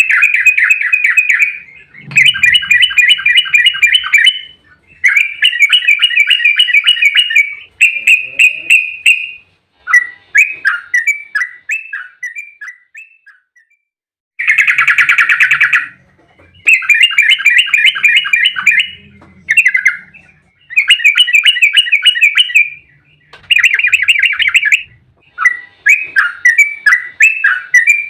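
Yellow-vented bulbul (trucukan) singing in fast chattering bursts of rapidly repeated notes, each burst lasting one to two seconds with short pauses between. This is the long, rapid 'ropel' song.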